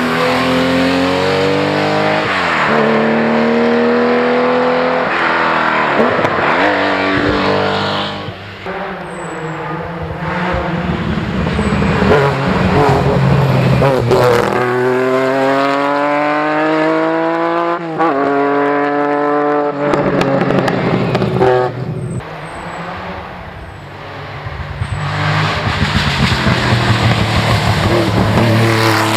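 Group B rally car engines accelerating hard through the gears. The pitch climbs steeply and drops sharply at each upshift, over several runs with quieter lulls between.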